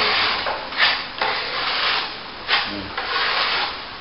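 Steel plastering trowel sweeping over a wet top coat of plaster on plasterboard, a scraping rub in several strokes one after another.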